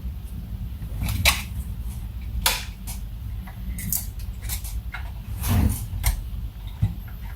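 Scattered small clicks and scrapes of hands handling the plastic instrument-cluster parts while a new gauge face is fitted, over a steady low hum.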